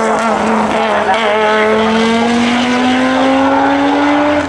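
Group B rally car engine under load, its revs climbing slowly and steadily for about four seconds.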